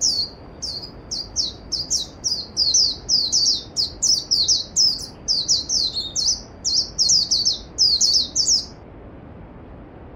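A songbird singing a long run of rapid, repeated high notes, each sliding downward, about three a second, stopping near the end, over the steady rush of a mountain stream.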